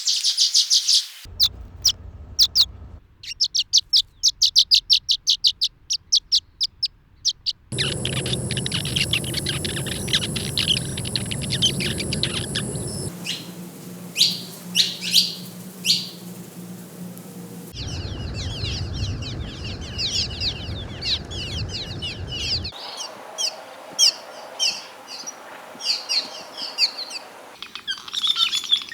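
Swallows calling: quick series of short, high chirps and twitters, with the background changing abruptly every few seconds as one recording gives way to the next.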